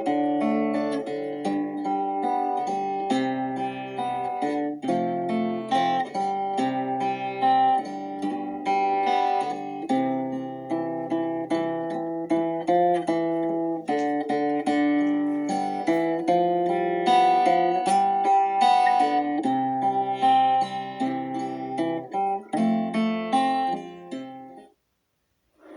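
Slow instrumental acoustic guitar music, plucked melody notes over held chords, in a calm worship style. It fades and stops near the end, leaving about a second of silence.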